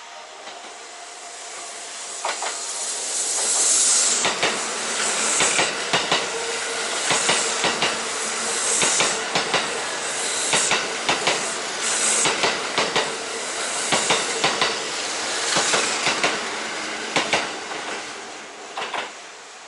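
A Kintetsu electric train passing close by on the Shima Line. It builds up over the first few seconds into a steady rush of wheels, with many sharp clicks of wheels over rail joints and hissing surges, then fades away near the end.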